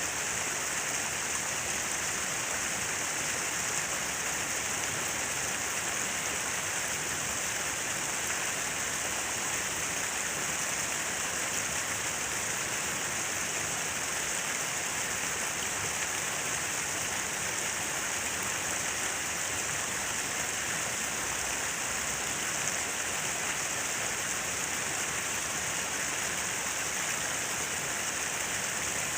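Falling water splashing steadily, a constant even rush that is strongest in the high range, with no breaks or changes.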